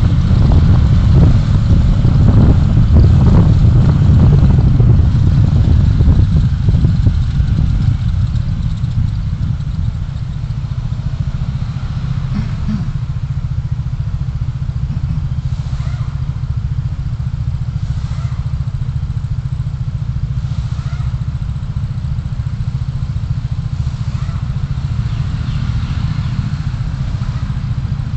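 A vehicle on the move: steady low engine and road rumble, louder for the first several seconds, then settling to a lower, even level.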